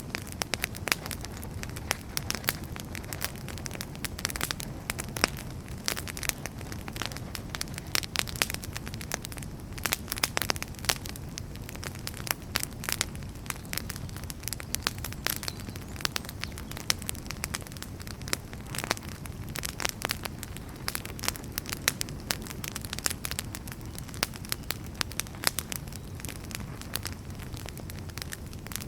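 Wood fire burning in a fireplace: a steady low rumble of flames with dense, irregular crackles and pops from the burning firewood.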